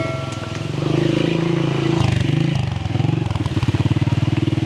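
A small engine running close by, with a fast, even firing rhythm. Its pitch drops briefly about two seconds in, then it picks up again.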